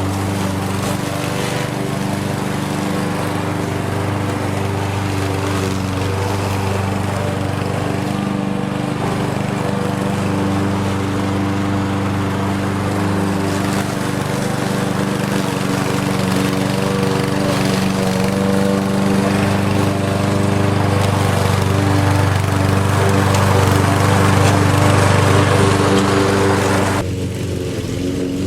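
Lawn mower engine running steadily under load, growing a little louder over the stretch. Near the end the higher, noisier part of the sound cuts off suddenly while the engine keeps running.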